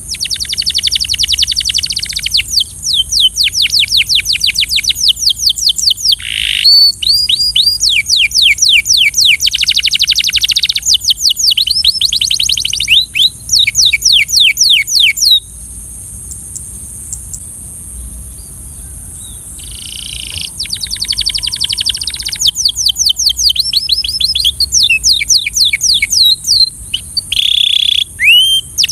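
Belgian canary singing rapid trills of quickly repeated down-slurred notes, phrase after phrase. It breaks off for about four seconds midway, then starts again, over a steady high hiss.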